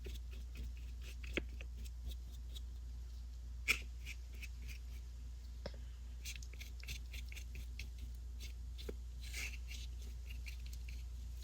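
Faint scratching of a small flat paintbrush stroking and dabbing acrylic paint onto paper, with scattered light ticks and one sharper tap about a third of the way in. A steady low hum runs underneath.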